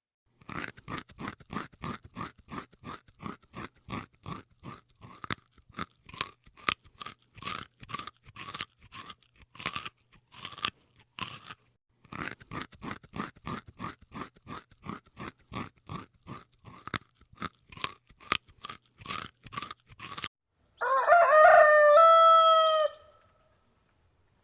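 Rapid, regular crunching, about three crunches a second, with a brief break about halfway through. Then a rooster crows once, loud, for about two seconds.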